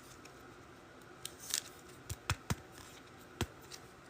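Trading cards being handled: a soft rustle, then a few faint sharp clicks and taps as cards are slid and set down.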